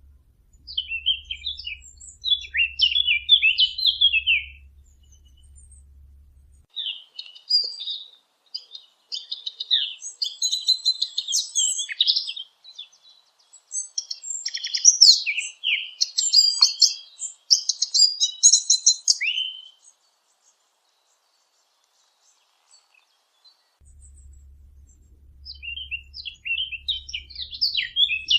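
A fig bird, a small songbird, singing bursts of fast, varied warbling song, with short pauses between phrases and a few seconds of silence past the middle. A faint low hum lies under the first few seconds and the last few.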